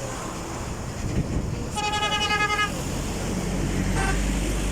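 Vehicle horn honking for about a second, then a brief second toot, over the steady engine and road noise of a moving car.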